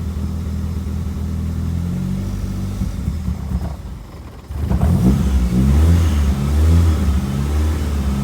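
2003 Mazdaspeed Protege's turbocharged 2.0-litre four-cylinder running just after an oil change, circulating the fresh oil. It runs steadily at first; about halfway through it dips briefly, then comes back louder with the engine speed rising and falling.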